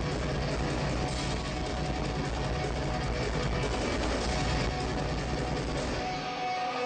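Live metal band playing loud, dense music with electric guitar during a sound check; the low end drops out near the end.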